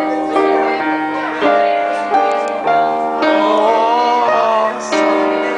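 Piano chords played in a slow succession, each held about a second, with a voice singing along briefly around the middle.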